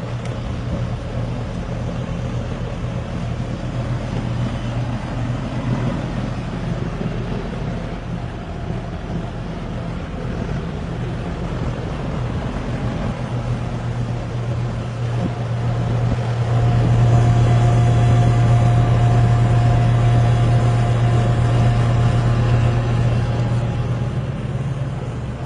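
York 2.5-ton single-package gas/electric air conditioning unit running with a steady low hum. About two-thirds of the way in it grows louder and a higher steady tone joins it, then it eases back near the end.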